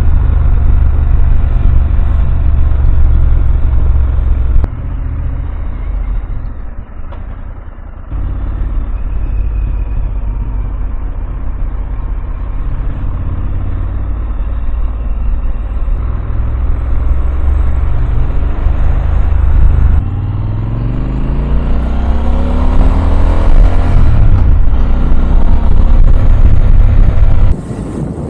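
Motorcycle riding along, heard through the onboard microphone: a heavy low rumble of engine and wind. About twenty seconds in, the engine note climbs steadily as the bike accelerates. The loudness drops suddenly several times.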